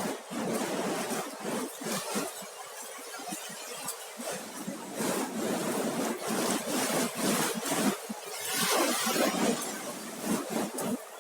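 Surf washing up the beach: a hiss full of crackling clicks and fizzing, with a louder wash a little before the end.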